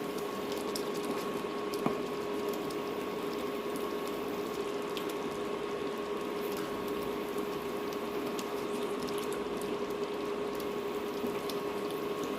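Pot of chicken and onion gravy simmering over low heat, a steady bubbling hiss with faint scattered ticks, over a steady hum. A single light knock about two seconds in.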